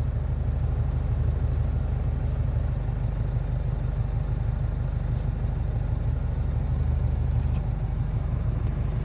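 Truck's diesel engine running steadily, heard from inside the cab as a low, even drone.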